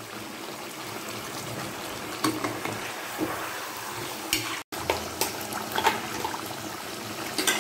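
Chicken pieces sizzling as they fry in hot oil in a kadhai, with a few light knocks and scrapes of a spoon stirring. The sound drops out for a moment about two-thirds through.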